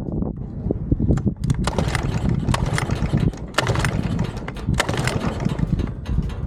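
Mercury 5 hp two-stroke outboard being pull-started: the recoil cord is yanked again and again, and the engine coughs and sputters roughly without settling into a run, a sign that it is still not running right.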